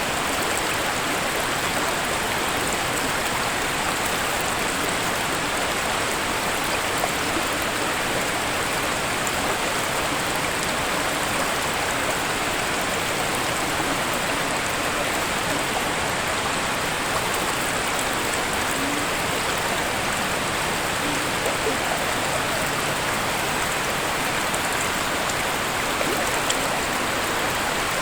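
Waterfall and stream water rushing in a steady, unbroken hiss, with faint scattered splashes.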